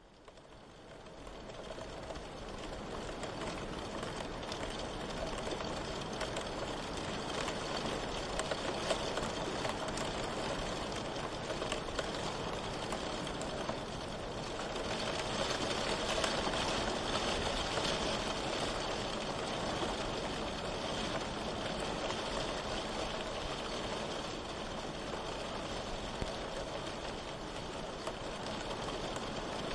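Steady rain, fading in over the first couple of seconds, with a gentle swell around the middle.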